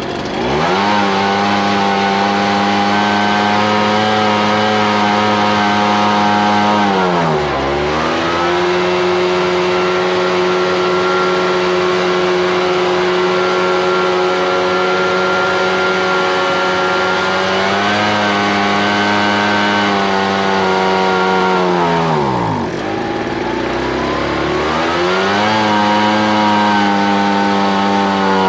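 Ryobi BP42 backpack blower's two-stroke engine revving: it climbs quickly to high speed and holds, drops back about seven seconds in, runs lower for about ten seconds, then rises and falls twice more. This is a test run while the carburetor's low- and high-speed mixture is being adjusted to stop it bogging.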